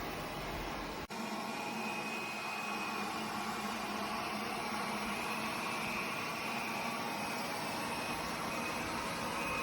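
Airzeen R7 robot vacuum running: a steady motor whir with a faint, slightly wavering high whine, broken once by a brief dropout about a second in.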